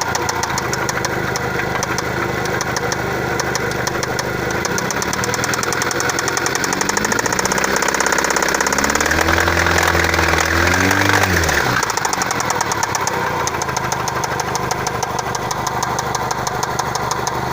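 Mazda MPV's FS-DE 2.0-litre four-cylinder engine running with a rapid, even ticking knock from the valve cover area. It idles, is revved up from about six seconds in and held, then drops back to idle around twelve seconds.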